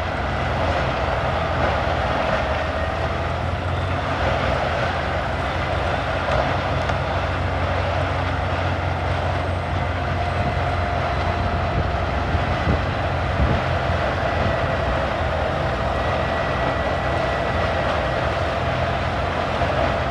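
CBI 6800 CT horizontal grinder running steadily as it grinds logs into chips: a continuous engine and rotor roar with a low rumble and a held whine over it.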